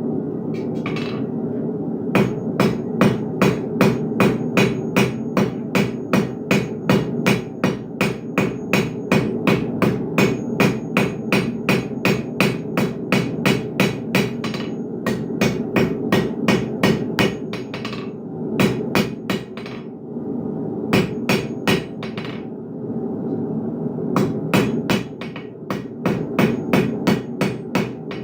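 Blacksmith's hammer blows on hot steel over an anvil, about three a second, in runs with short pauses in the second half, while the hook is forged. A steady hum runs underneath throughout.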